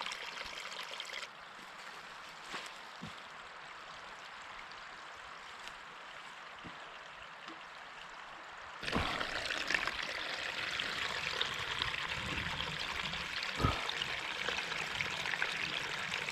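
Small stream trickling over stones, a steady rush of running water that grows louder and brighter about nine seconds in.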